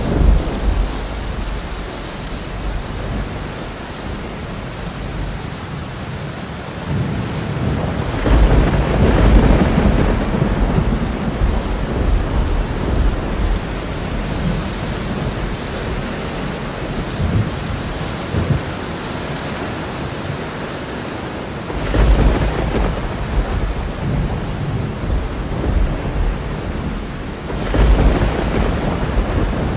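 Steady rain with rolls of thunder. The thunder swells into low rumbles three times: about a quarter of the way in, about two-thirds of the way in, and near the end.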